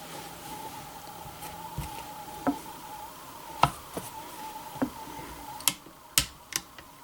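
About seven sharp, irregularly spaced taps on the rifle's flint as it is knapped to sharpen its edge, over a faint steady hum. The taps grow louder near the end.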